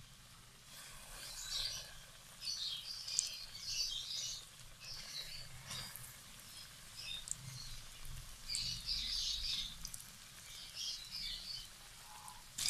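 Coated chicken pieces sizzling in hot ghee in a metal pan, the frying coming in short irregular bursts as each piece is lowered in.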